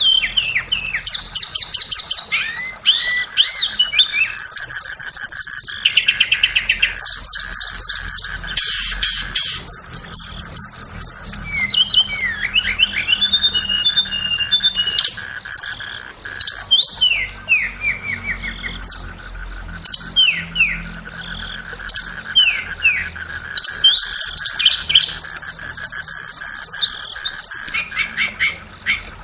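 Flowerpecker (tledekan) song: rapid high trills alternating with sharp, quick down-slurred chip notes, repeated over and over, with a steady faint hum underneath.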